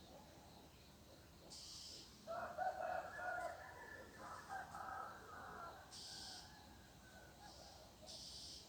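Rooster crowing: one long crow starting a little over two seconds in and lasting about three seconds, loudest at its start.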